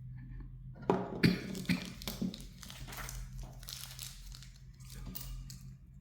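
Plastic parts of a smartphone being handled on a workbench: four sharp clicks and taps about a second in, then plastic rustling and crinkling, over a steady low electrical hum.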